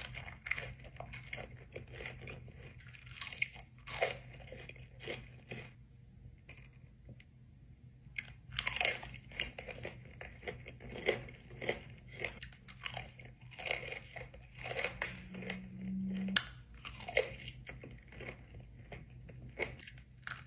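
Close-miked eating: crunchy bites and chewing in an irregular run of short crackles.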